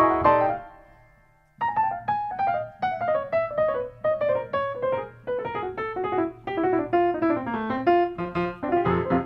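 Piano music: a chord fades out, then after a short pause a quick run of single notes steps downward in pitch.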